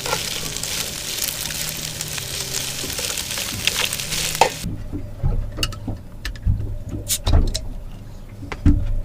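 Lobsters frying in butter and garlic in a pan, a steady sizzle that cuts off suddenly about halfway through. After it, a few sharp clicks and knocks over a low rumble.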